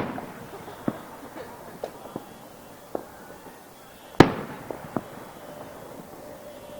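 Aerial fireworks bursting: a loud boom at the start and another about four seconds in, each trailing off, with smaller sharp pops scattered in between.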